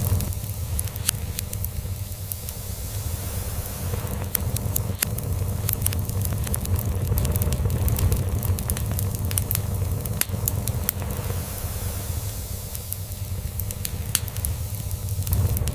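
Log fire crackling with frequent sharp pops, over a continuous low cat purr.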